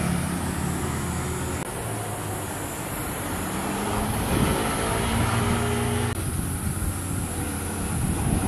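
Motorcycle engines running as bikes pass along a road, pitch rising in places as they accelerate, with abrupt changes about a second and a half in and again near six seconds where one pass gives way to another.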